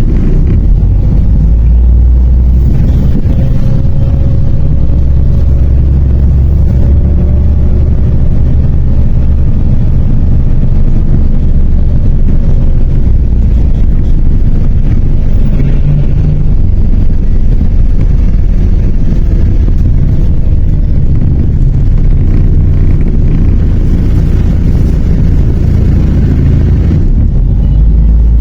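MAZ 103 city bus heard from inside the passenger cabin: a steady low engine and road rumble as the bus drives along.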